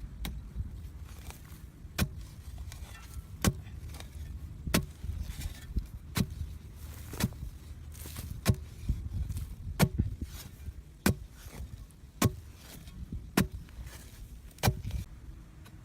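A steady series of sharp chopping blows, about one every second and a quarter, around a dozen in all.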